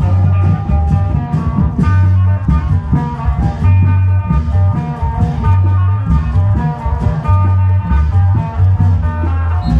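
Isan klong yao long-drum band music: heavy, steady drumbeats under a plucked-string melody.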